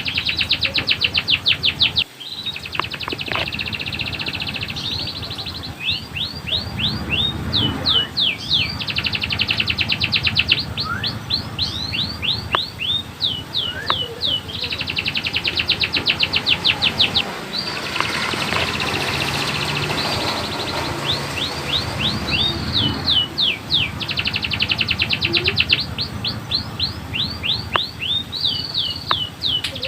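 Domestic canary singing a long rolling song: fast trills of rapidly repeated downward-sweeping whistled notes alternating with slower runs of separate notes.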